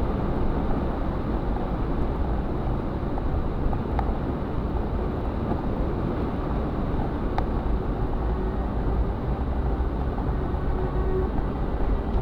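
Steady rainfall: a heavy, even rush of rain with a strong low rumble, and two faint sharp ticks a few seconds apart.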